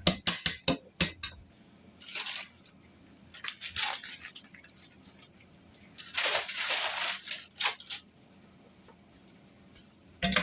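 A utensil working a pan of cooking eggs: a quick run of clicks and taps at the start, then three scraping strokes, the longest about six seconds in.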